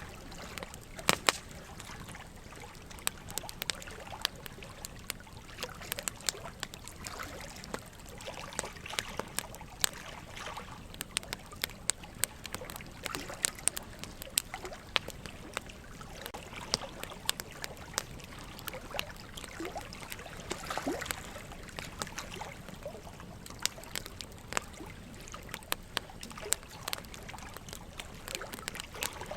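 Wood fire crackling and popping, with irregular sharp snaps of different loudness, over a steady trickling water sound.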